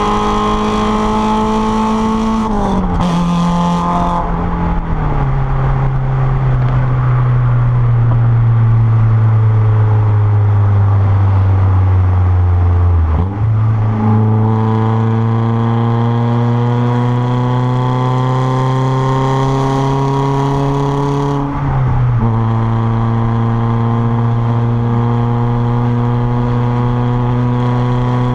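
Renault Clio 1.6 16v K4M four-cylinder engine through a straight 2-inch exhaust while driving. Its note steps down twice in the first few seconds at gear changes, then falls slowly for several seconds. After that it climbs steadily under acceleration, drops again at another upshift about three-quarters of the way through, and climbs on.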